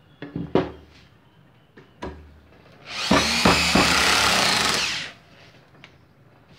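A few short knocks, then a Bosch GSR 7-14 E corded 400 W drill/driver runs steadily for about two seconds, driving a 1/4-inch screw into hard wood, and stops abruptly.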